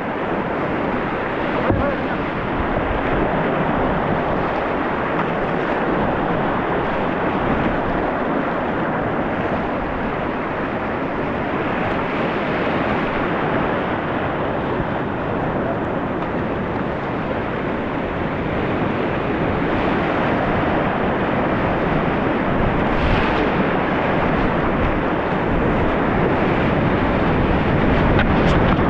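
Whitewater of a mountain river rushing steadily, with wind buffeting the microphone.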